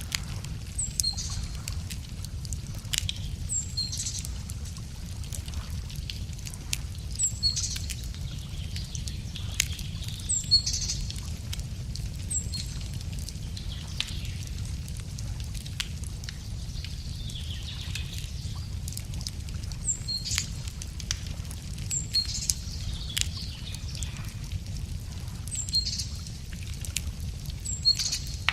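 Wood fire crackling with frequent sharp pops and snaps. Over it, a songbird repeats the same short, high call every two to three seconds, and there is a steady low rumble.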